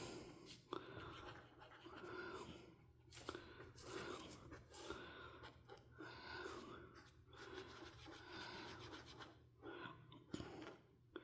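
Faint scratching of a coloring tool rubbed back and forth on paper. The strokes are soft and evenly paced, roughly one or two a second, with a short pause near the end.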